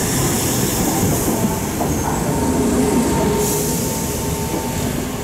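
Class 319 electric multiple unit moving along the platform, its wheels and running gear rumbling steadily. A faint thin wheel or brake squeal sounds through the middle.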